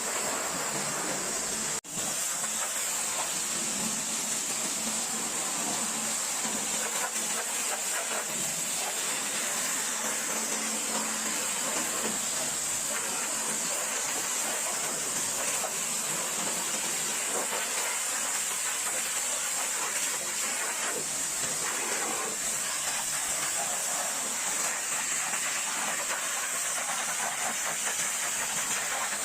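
High-pressure water spray from a pressure washer hitting a truck, a steady hiss that runs on with a brief break a little under two seconds in.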